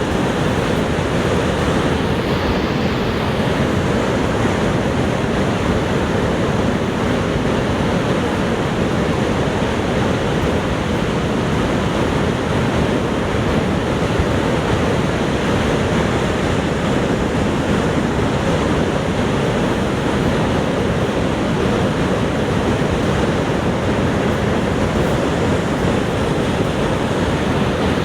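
Niagara Falls: the steady, heavy rush of water falling, an even roar with no breaks or changes.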